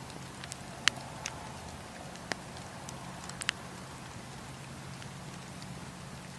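Wood campfire crackling: a few sharp snaps and pops, the loudest about a second in, over a steady low rumble.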